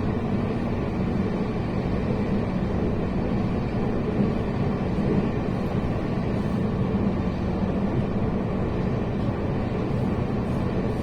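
Steady running noise of a passenger train heard from inside the carriage: a constant rumble with a low, even hum.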